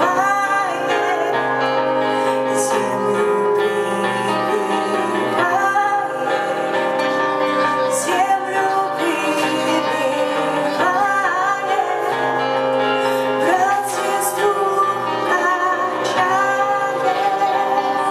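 Live band music with a female voice singing a wavering, drawn-out melody over sustained instrumental accompaniment.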